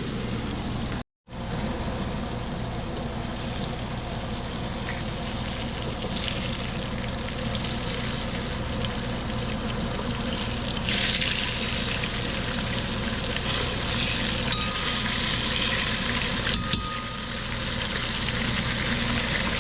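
Thin chicken cutlets frying in hot oil in a pan: a steady sizzle that grows louder and brighter about halfway through. The sound cuts out briefly about a second in.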